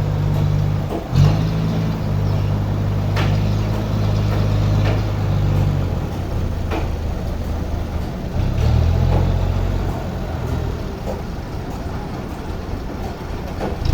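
An engine or motor running with a steady low hum. It cuts out briefly about a second in with a sharp knock, and a few more knocks follow. The hum fades after about six seconds and returns between about eight and eleven seconds.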